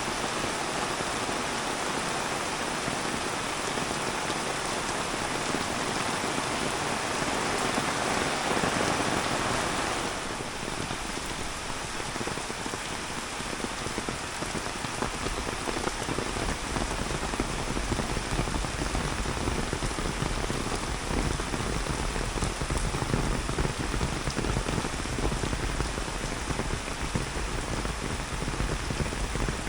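Heavy tropical downpour, an 'orange rain' of about an inch an hour, falling as a dense, steady hiss of rain on surfaces. About ten seconds in the hiss eases slightly, and from about fifteen seconds a deeper low rumble comes in under it.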